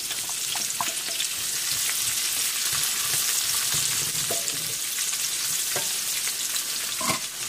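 Diced onions and garlic sizzling in hot oil in a metal wok, stirred with a wooden spatula that knocks against the wok a few times.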